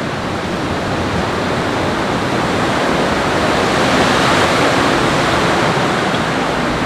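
Loud, steady rush of water with no breaks, swelling slightly a few seconds in.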